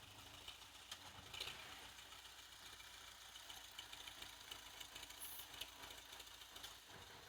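Tractor engine running faintly with a steady low rumble, which drops away near the end.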